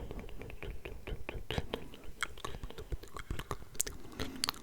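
Close-miked ASMR mouth sounds: a dense, irregular run of short wet clicks and smacks from lips and tongue.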